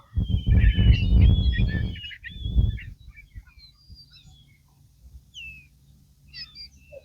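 A flock of birds calling: loud, harsh calls for about the first two and a half seconds, then fainter scattered chirps.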